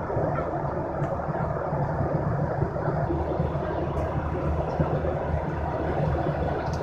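Steady airliner cabin drone: an even rushing noise over a constant low hum, with a few faint ticks.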